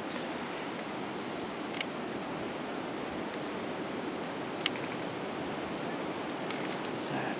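Steady rush of strong wind through the forest trees, with two sharp clicks, about two seconds and about five seconds in.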